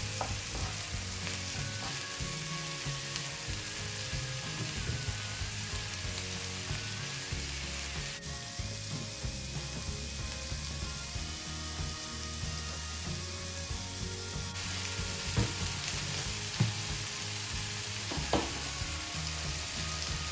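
Canned corned beef and sliced onions sizzling steadily in oil in a frying pan, with a few sharp clicks in the last few seconds.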